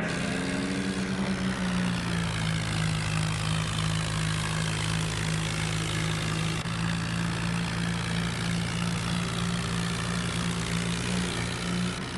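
Tractor's diesel engine running at a steady speed, a constant low hum.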